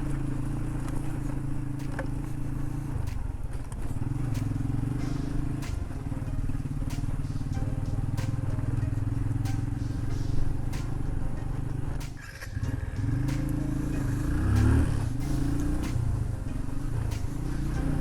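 Motorcycle engine running steadily while riding. It dips briefly about twelve seconds in, then rises and falls in pitch with throttle changes.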